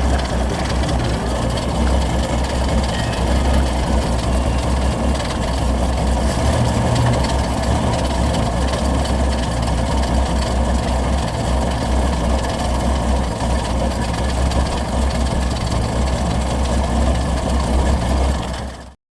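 1946 Chevrolet pickup's 216 inline-six engine running with a steady low rumble, then cutting off suddenly near the end.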